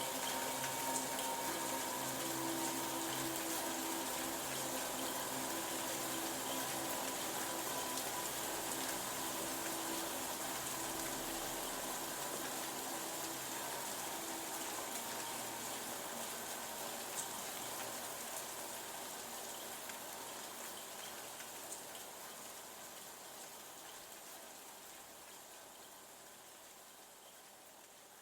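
Steady rain noise, with faint sustained low tones underneath during the first half, fading out gradually to near silence by the end.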